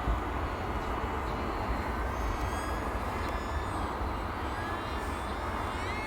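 Electric motor and propeller of an E-flite Delta Ray One RC airplane whining in flight. The pitch drifts with the throttle and rises near the end, over a steady low rumble.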